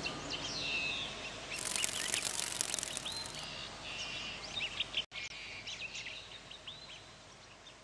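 Small birds chirping repeatedly in short, quick calls over faint background noise, with a brief burst of hiss about a second and a half in; the sound fades gradually toward the end.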